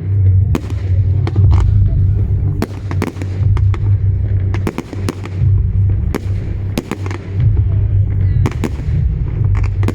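Fireworks display: a rapid, irregular string of sharp bangs and crackles from bursting shells, several a second, over a steady low rumble.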